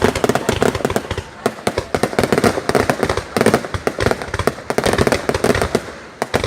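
Fireworks going off in a dense, rapid crackle of many small bangs, with no pause between them.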